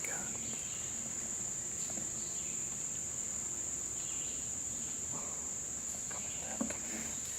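Steady, unbroken high-pitched drone of insects such as crickets, with a few faint soft rustles.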